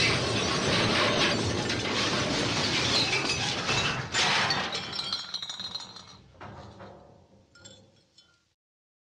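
MGM "Elephant Smash" cartoon crash sound effect: a long, dense smash of breaking glass and clattering debris, with a fresh burst about four seconds in. Scattered tinkling pieces then die away until the sound ends about eight seconds in.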